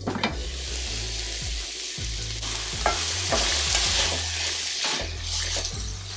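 Sliced turkey smoked sausage and onions sizzling in a frying pan, the sizzle rising as the lid comes off, while a spatula stirs and scrapes them with scattered sharp clicks.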